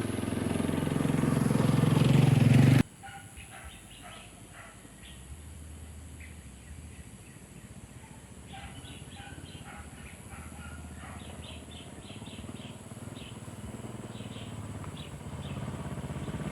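A motor vehicle engine runs and grows louder, then cuts off suddenly about three seconds in. Quiet outdoor ambience follows, with short bird chirps scattered through it, and a low engine rumble builds again near the end.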